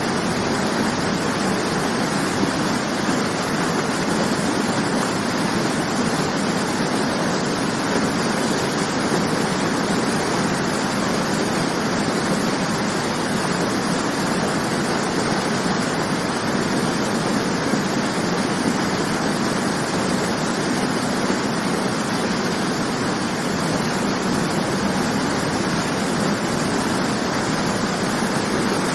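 Waterfall rushing: a steady, even roar of falling water without breaks.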